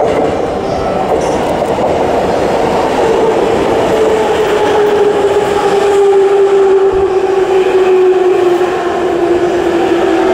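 JR East E257 series electric train running past close by: a loud, steady rolling noise with a whine that slowly falls in pitch.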